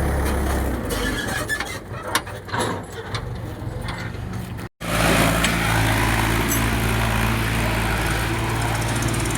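Tractor engine running, with rattling and clicks over it; the sound drops out briefly about halfway, then comes back as a steady engine drone.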